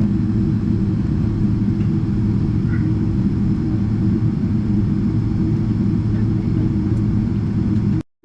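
Steady low rumble inside the cabin of a Boeing 777-300ER taxiing, from its GE90 engines at taxi power and the cabin air, with a few steady low hums running through it. The sound cuts out for a moment near the end.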